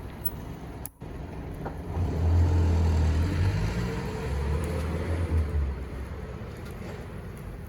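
A car passing by: a low rumble swells about two seconds in and fades away over the next few seconds.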